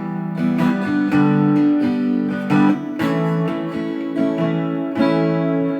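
Acoustic guitar strummed in a slow folk rhythm, the chords ringing on between strokes. It is the instrumental introduction to the song, before the singing comes in.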